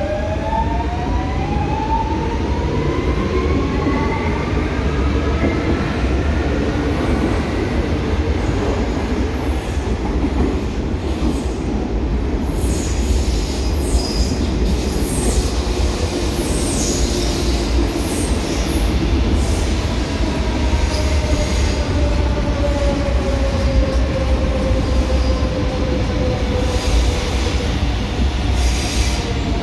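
Electric commuter trains at a station platform. The first accelerates away, its traction-motor whine rising over the first few seconds. In the middle there is high-pitched squealing, and over the last ten seconds another train's whine falls as it slows along the platform, over a steady rumble.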